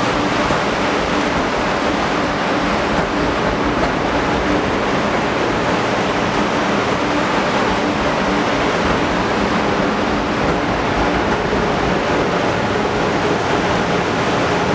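Amtrak Acela trainset rolling past a platform in an underground station: a loud, steady rush of wheels on rail and moving air, with a faint hum beneath it.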